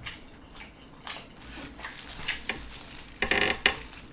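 Wet, crackly chewing of soy-sauce-marinated raw shrimp, with scattered clicks. A louder burst of crackling comes a little past three seconds, as plastic-gloved hands pull a shrimp apart.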